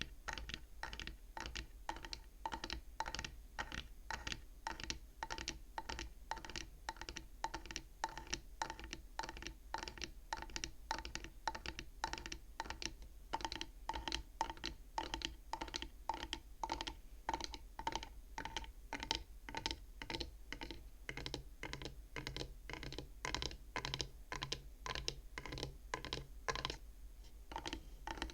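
Fingers tapping quickly and steadily on the wooden frame of a bead counting frame, each tap a short, dry knock with a hollow woody ring.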